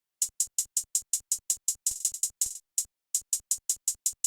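Programmed hi-hat pattern in an electronic beat: rapid, evenly spaced short ticks, about five a second, with a brief pause midway.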